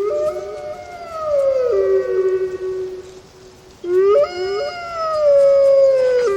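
Wolves howling: at least two voices at different pitches overlap, each rising into a long held note that slowly falls. A second round of howls starts about four seconds in and is still going at the end.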